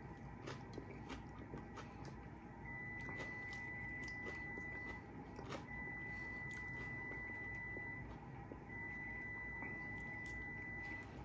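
Close-up eating sounds: chewing and light clicks of a plastic fork against a plate. A steady high tone comes on three times, each lasting about two seconds.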